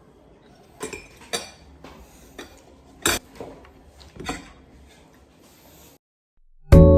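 Cutlery clinking against a plate during a meal: a handful of scattered clinks, the sharpest just after three seconds. Near the end the sound drops out briefly, then loud piano-like background music starts.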